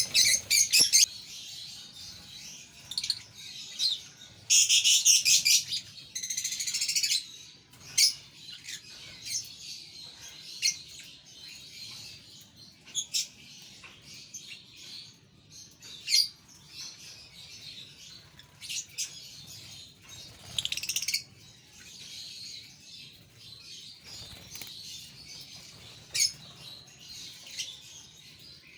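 A group of pet parrots chirping and chattering in short, high calls scattered throughout, with a dense burst of chatter about five to seven seconds in.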